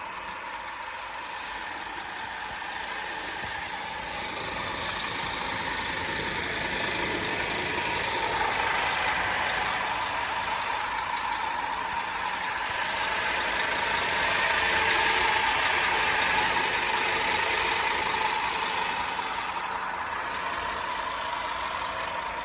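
Scania P230 truck's diesel engine running steadily, growing louder in two long swells, about a third of the way in and again past the middle.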